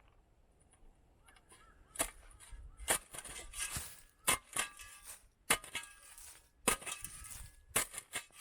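Metal shovel digging into garden soil: a series of sharp strikes and scrapes, roughly one a second, starting about two seconds in.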